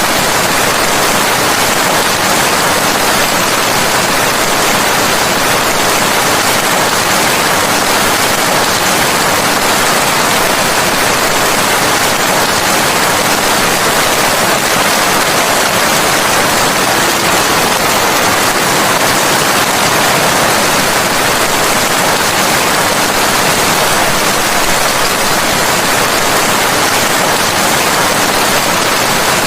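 Steady, loud rain: an even, unbroken hiss with no individual drops or thunder standing out.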